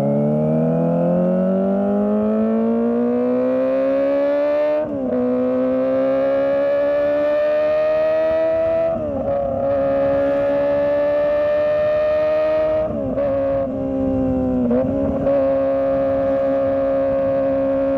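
Kawasaki ZX25R's 250cc inline-four engine running at high revs, its note rising steadily over the first few seconds. The note then dips and briefly breaks about four times, as at gear changes, before settling into a steady high-pitched cruise.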